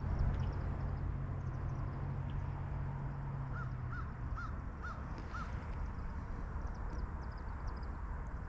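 A bird calls five times in quick succession, short arched notes about half a second apart, over a steady low rumble.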